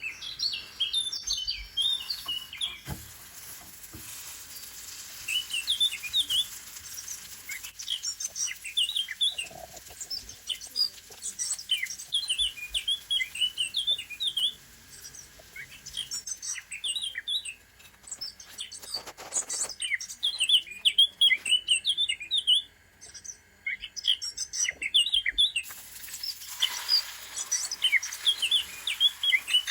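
Small birds chirping and twittering: many short, quick calls, with a few brief pauses between phrases.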